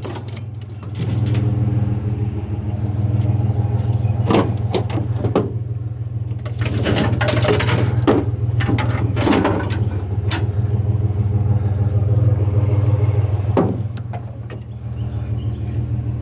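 Truck engine running steadily, with a series of knocks, bangs and clatters of loose metal over it.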